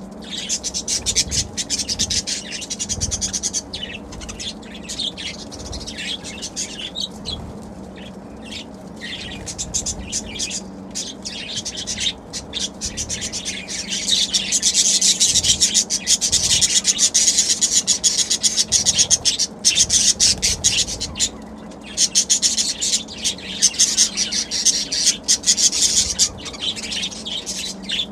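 Budgerigars chattering and chirping in fast, continuous warbles, growing louder from about halfway through.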